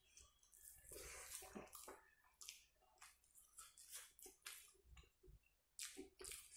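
Faint close-up eating sounds of a person chewing rice and pork curry: repeated wet smacks, squishes and mouth clicks every fraction of a second.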